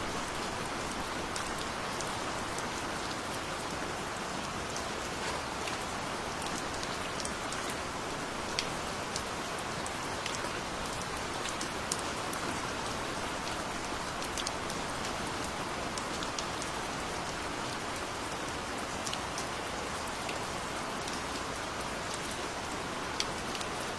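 Steady gentle rainfall, an even hiss of rain with scattered individual drops ticking sharply on a surface.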